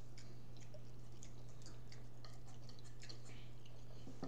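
Soft chewing and mouth sounds with scattered light clicks of a fork against a plate, over a steady low hum.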